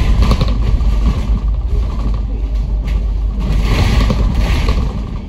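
Cabin noise of a Kowloon Motor Bus on the move: a steady low engine and road rumble, with rattles and creaks from the bus's fittings.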